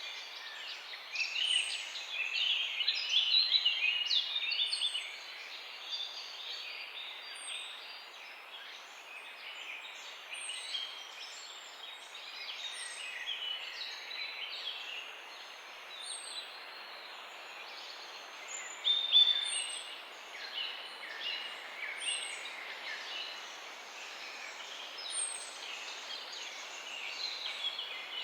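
Morning chorus of several songbirds chirping over a steady background hiss. One bird repeats a short, very high falling note every two to three seconds. The chirping is busiest near the start, with a brief loud flurry about two-thirds of the way through.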